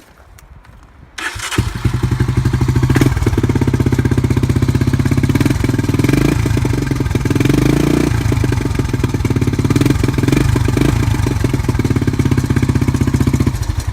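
Cold start of a 1986 Honda TRX ATV's four-stroke engine: it fires about a second in, runs with a fast even beat and a mechanical noise that the owner puts down to the timing chain, then is shut off near the end.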